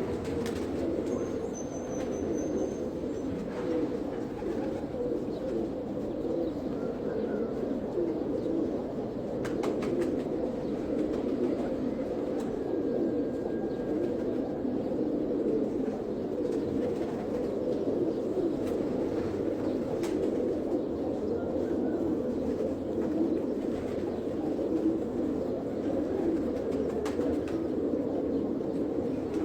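Domestic pigeons cooing together in a dense, continuous chorus, with a few faint clicks and a brief high chirp over it.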